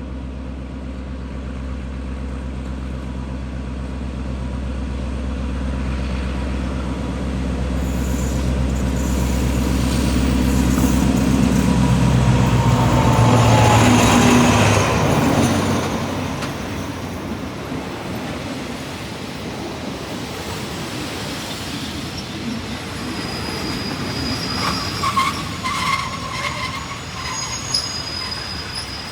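Train going by: the low hum of a diesel locomotive engine builds up and is loudest about thirteen seconds in, then falls away. The cars then roll past with rattling wheel noise and high wheel squeal near the end.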